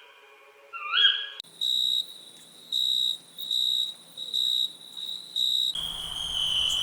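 Nature sounds of crickets or other insects: a regular high chirp about once a second, changing near the end to a steady continuous trill. Near the start, two short rising whistled calls are heard.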